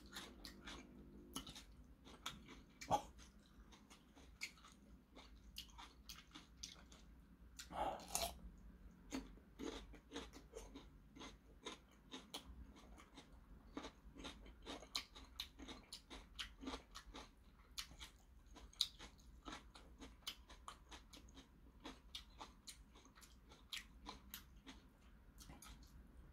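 Faint, close crunching and chewing of raw cucumber dipped in chojang, many irregular crisp crunches, with a louder crunch about eight seconds in.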